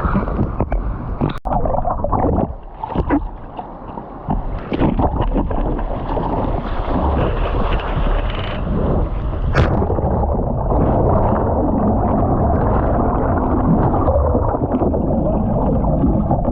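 Choppy sea water splashing and churning close up, in short separate splashes at first, then a steady rushing wash from about six seconds in, with one sharp splash near ten seconds.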